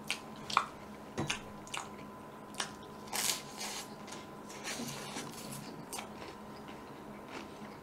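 Close-miked eating sounds: wet smacking and chewing clicks from a mouthful of soft bread and whipped cream, spaced out over the first six seconds, with one short louder rustle about three seconds in. A faint steady electrical hum runs underneath.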